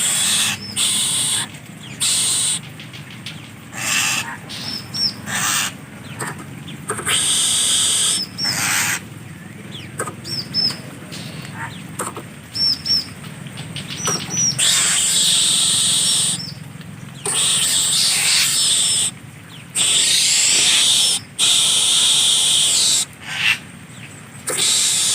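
A bird making loud hissing bursts again and again, each one to three seconds long, with short high chirps in the gaps between them.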